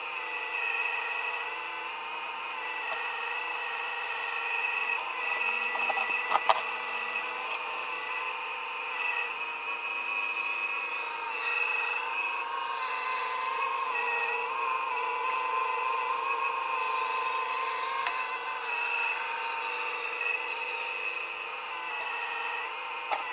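A machine running with a steady high whine made of several held tones, one of them wavering up and down, and a couple of sharp knocks about six seconds in.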